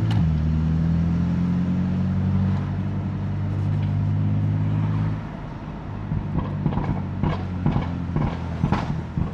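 BMW F80 M3's twin-turbo straight-six exhaust running steadily under throttle, then dropping away about five seconds in and giving a series of sharp irregular pops and crackles on overrun.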